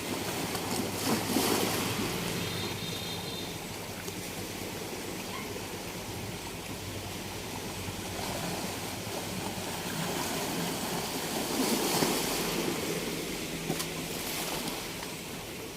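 Sea waves washing onto a beach, a steady rush with surges as waves break, the strongest about a second in and again near twelve seconds.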